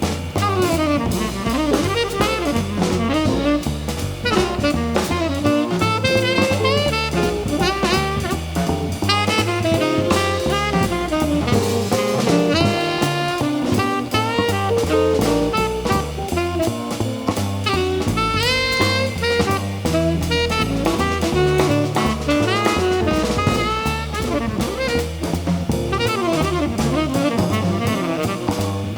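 Live jazz band playing, a saxophone running through quick melodic phrases over drum kit and bass.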